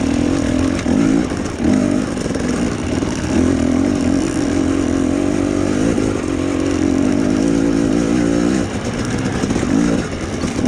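Husqvarna TE250i two-stroke dirt bike engine working at low revs over rocky ground. The throttle is blipped in short bursts over the first couple of seconds, then held more steadily with the pitch wavering. It eases off about nine seconds in, then picks up again near the end.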